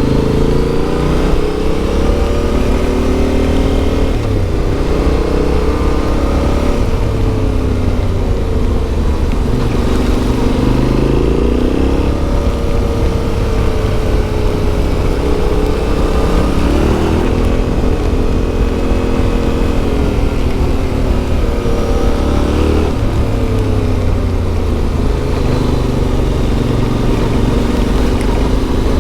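Yamaha Ténéré 700's CP2 parallel-twin engine running through an Akrapovič exhaust, its revs rising and falling again and again as the bike is ridden on a dirt track.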